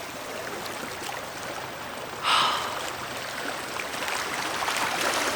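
Steady rushing of water, with a short, sharp breath, like a gasp or snort, about two seconds in.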